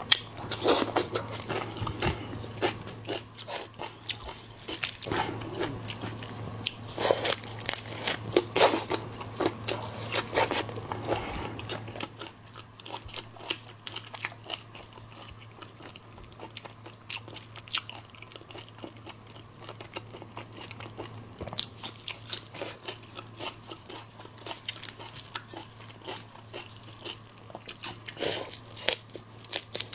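Close-miked eating of seafood: biting, crunching and chewing. The crunches are loud and frequent for the first dozen seconds, then give way to lighter, sparser chewing. A steady low hum runs underneath.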